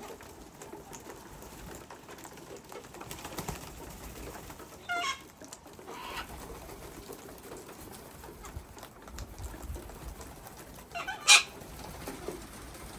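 A feeding flock of long-billed corellas calling: a few short squawks, about five and six seconds in, and a loud one about eleven seconds in, over a low steady background.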